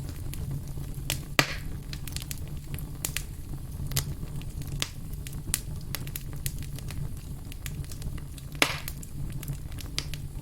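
Wood fire crackling: scattered sharp pops and ticks over a steady low rumble, with two louder pops, about a second in and near the end, each trailing off in a short hiss.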